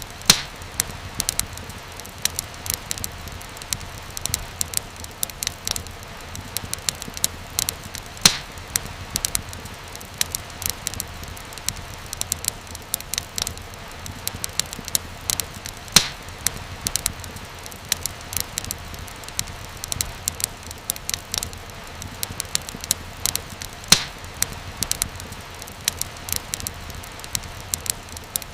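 Fire crackling in a fireplace: a steady hiss dotted with many small snaps, and a louder pop about every eight seconds.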